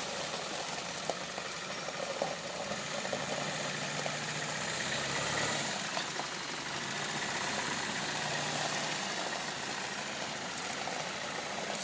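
Land Rover Defender 130's 300Tdi four-cylinder turbodiesel running steadily at low revs as the truck creeps forward under its own power.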